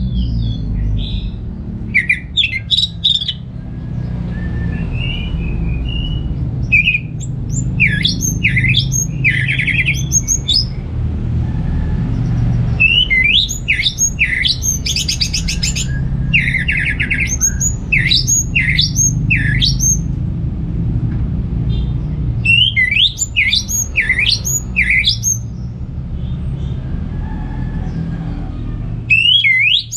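Orange-headed thrush singing in repeated bursts of quick, sharp, high whistled notes, with pauses of a few seconds between bursts, over a steady low rumble.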